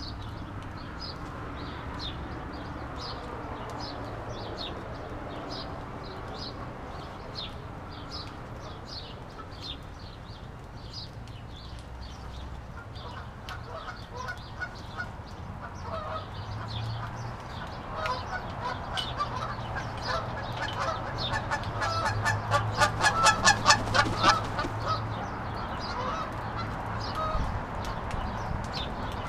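Birds honking, with a run of rapid, louder honks about three quarters of the way through, over a steady low hum.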